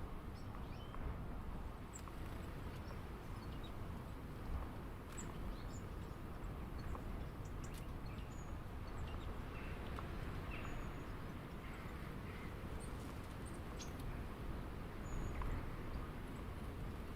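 Steady low outdoor rumble with scattered faint, short bird chirps and small clicks.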